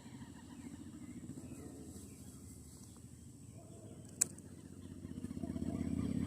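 An engine running with a fast, low pulse, growing louder over the last two seconds, with one sharp click about four seconds in.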